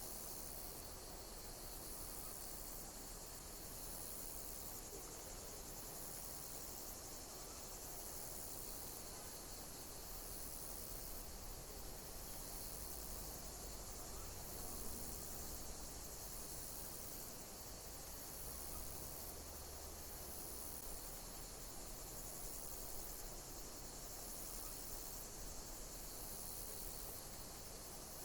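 Insects chirping: a high, even chirping that pulses about once a second over a steady hiss.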